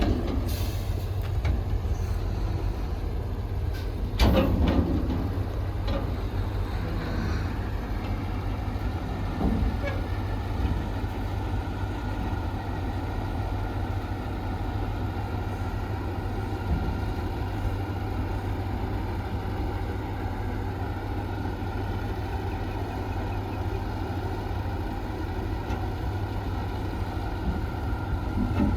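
Diesel engine of heavy earthmoving machinery running steadily with a deep rumble, with a sharp metallic knock about four seconds in.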